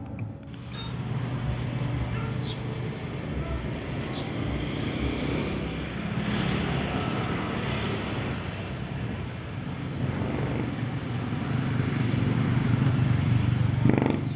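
A vehicle on the move: a steady low engine hum under road and wind noise, growing louder near the end.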